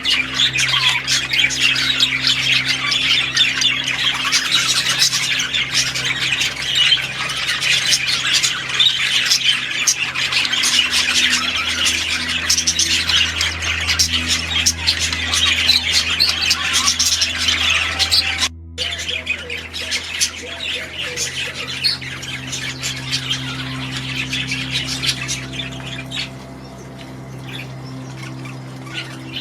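A crowded aviary of small cage birds squawking and chirping all at once, over a steady low hum. The sound cuts out briefly a little past halfway, and the calling thins out near the end.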